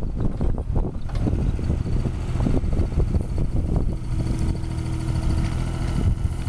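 Cat mini excavator's engine running steadily, with irregular knocks and clanks over the rumble.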